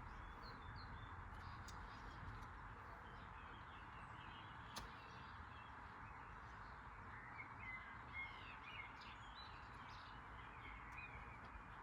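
Near silence: a faint steady hiss with faint bird chirps, and one short click about five seconds in.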